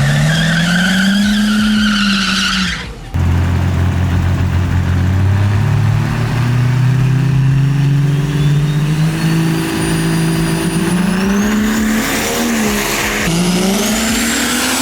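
Diesel drag-race truck engines running hard. The pitch climbs, then drops back at gear shifts, with a thin high whistle rising over the engine in the second half. The sound breaks off briefly about three seconds in and comes straight back.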